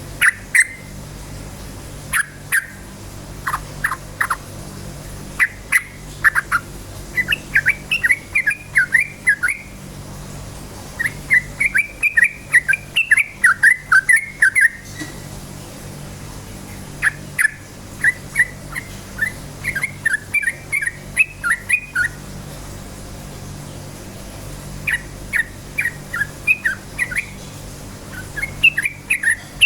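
Yellow-vented bulbul (trucukan) singing in repeated bouts of fast, chattering chirps, each run lasting a few seconds with short pauses between, over a steady low hum.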